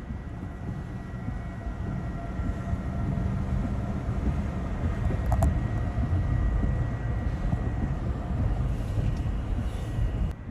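Tornado's low, continuous rumbling roar, building slightly through the middle, with a brief break near the end.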